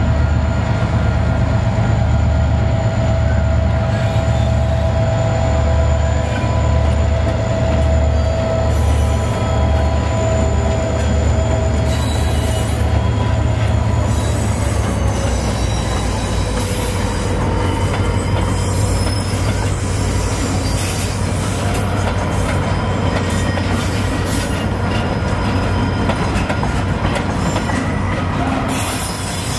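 Diesel-hauled freight train passing close by: a low pulsing engine note for the first dozen seconds, then wagons rolling past with clacking wheels and steady high squealing from the wheels on the rails.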